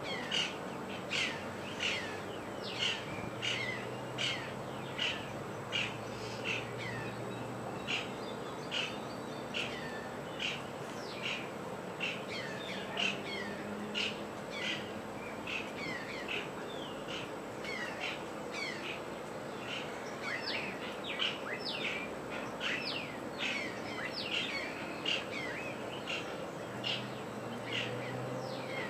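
Wild birds calling: a dense, steady run of short, sharply falling calls, about two a second, with a faint low tone coming and going underneath.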